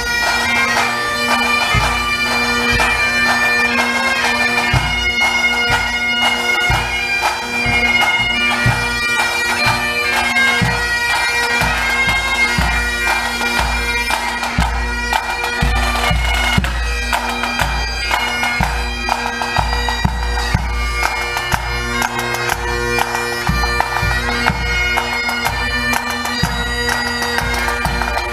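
Pipe band playing: bagpipes sounding a melody over their steady drones, with drums beating along.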